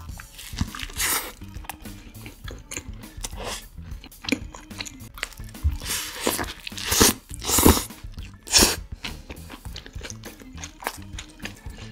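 Close-up eating sounds: bites into a cheeseburger with crisp iceberg lettuce, then crunching and chewing, with the loudest crunches about seven to nine seconds in. Soft music plays underneath.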